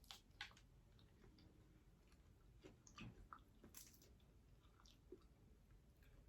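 Faint mouth sounds of a person chewing food, with scattered small wet smacks and clicks.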